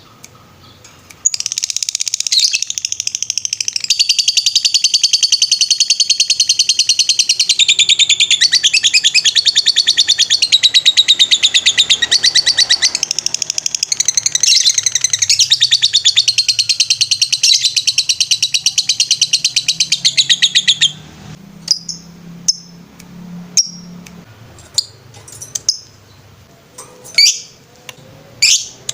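Lovebird singing a long, unbroken run of rapid, high-pitched chattering trills, the drawn-out 'ngetrek' song, for about twenty seconds. It stops suddenly and gives way to scattered short chirps.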